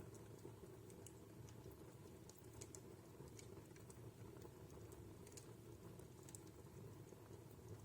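Wood fire in a fireplace crackling faintly: irregular small snaps and pops, several a second, over a low steady background.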